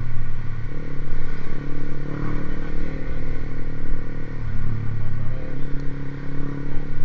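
Motorcycle with an aftermarket racing exhaust running at low revs, its steady tone shifting slightly up and down in pitch a few times.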